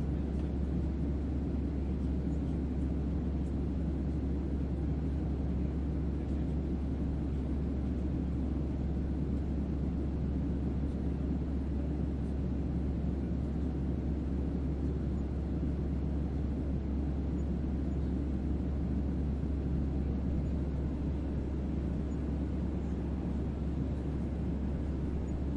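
Steady deep bass hum with a low rumbling wash of noise over it, unchanging throughout: a spaceship-interior ambience made as white noise for sleep.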